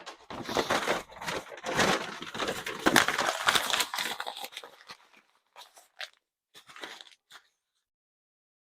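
A stiff spark-protection floor mat being handled and unfolded, with dense crinkling and rustling for about five seconds, then a few short scattered rustles before it falls quiet.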